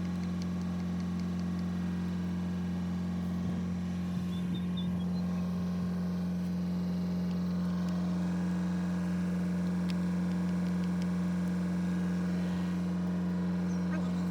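Komatsu excavator's diesel engine idling with a steady, even hum.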